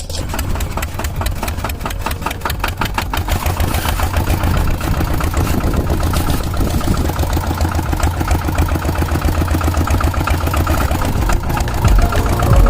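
Small tractor engine running with a fast, even chugging. The pulses are sharpest in the first few seconds, then it settles into a steadier run.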